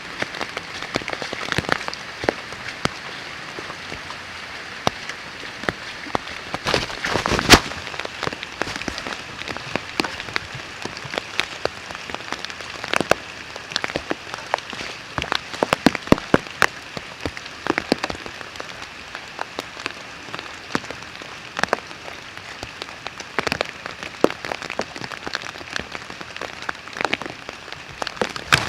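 Heavy rain falling steadily, with many sharp, irregular clicks of large drops striking close by, a dense cluster of them about seven seconds in.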